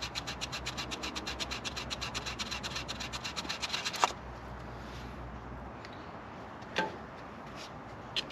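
Small file rasping quickly back and forth across a 1965 Thunderbird's distributor ignition points, about six even strokes a second, to dress worn points. It stops about four seconds in with a click, and a couple of light clicks follow.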